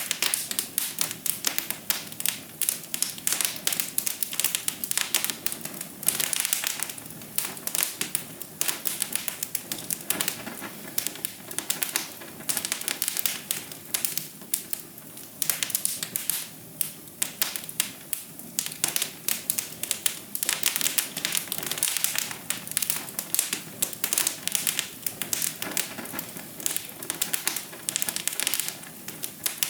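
Wood fire crackling: a dense, irregular run of sharp pops and snaps over a soft steady hiss.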